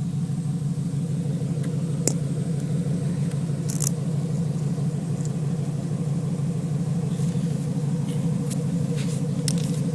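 Chevy pickup truck's engine idling steadily under the open hood, with a few light clicks over it.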